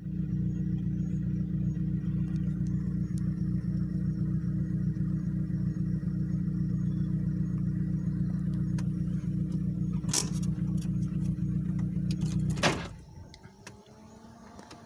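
A motor, most likely a vehicle engine, running steadily with a low rumble, then shut off about thirteen seconds in, just after two sharp clicks. Once it stops, faint insect sound is left.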